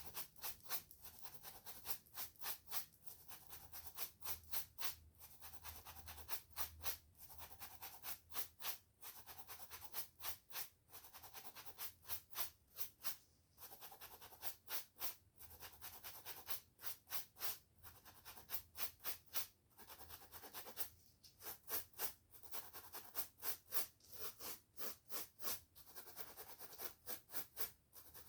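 Quick scratchy strokes through hair and over the scalp close to the microphone, about three a second, in runs with brief pauses.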